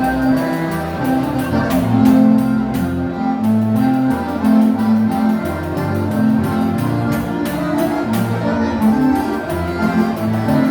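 Live gaúcho dance-band music in an instrumental passage: an accordion-led band with guitar and bass keeping a steady dance rhythm.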